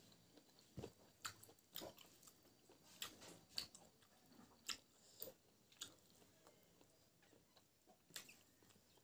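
Faint, close-miked mouth sounds of a person chewing cooked pig intestine: soft wet smacks and clicks, about a dozen, coming irregularly and thinning out toward the end.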